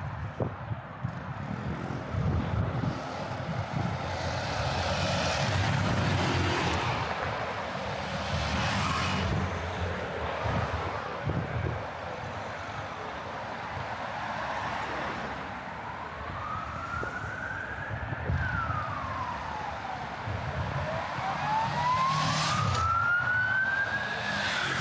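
City street traffic with vehicles passing, and an emergency vehicle's wailing siren that comes in past the middle, its pitch slowly rising and falling.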